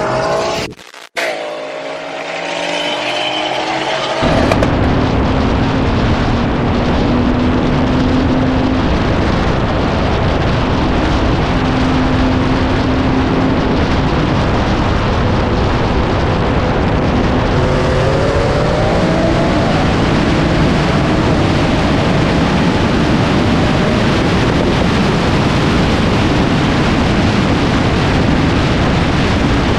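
Car engines running loudly and continuously, one holding a steady note for several seconds and later an engine's pitch climbing as it revs up. The sound drops out sharply for a moment about a second in.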